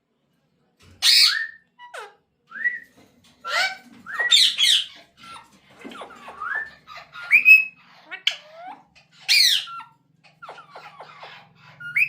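Pet parrot squawking and whistling, starting about a second in: a string of short, sharp calls with rising and falling pitch glides, spaced irregularly.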